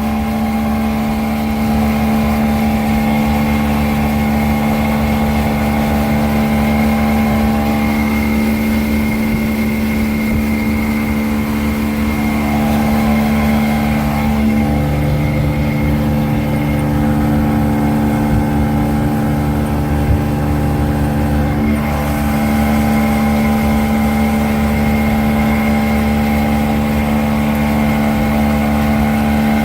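Rebuilt 1986 Evinrude 200 HP V6 two-stroke outboard running at a steady speed, with a slight change in tone for several seconds around the middle.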